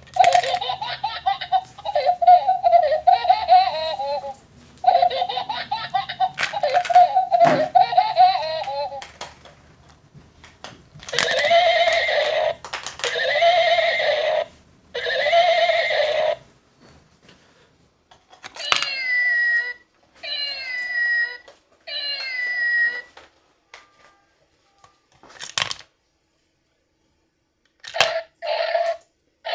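Plush coin banks' built-in sound chips playing short recorded clips through small speakers, one after another with gaps: a long laugh-like run first, then three short blocks, then three falling calls, then brief bursts near the end. The sounds are set off by coins dropped into the banks.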